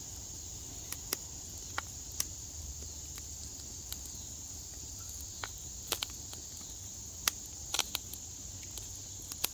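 Crickets chirping steadily, with about a dozen sharp, scattered pops and crackles from a bag of popcorn in the campfire as the kernels heat in sizzling oil and start to pop.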